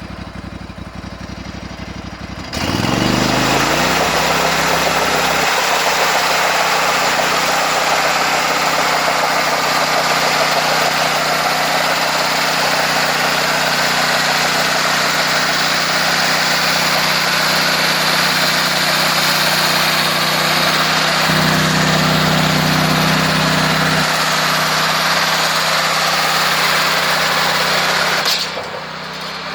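The engine of a homemade sawmill speeds up sharply, its pitch rising, about two and a half seconds in. It then runs loud and steady at high speed until it drops back briefly near the end.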